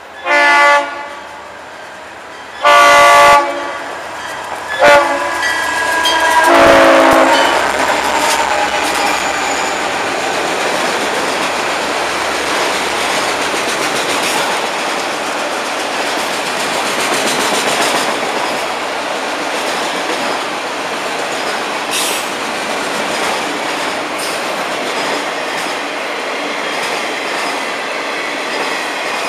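Freight locomotive horn blowing four blasts, long, long, short, long, the grade-crossing signal. The train then runs past, a long string of freight cars rolling by with a steady rumble and clatter of wheels on rail.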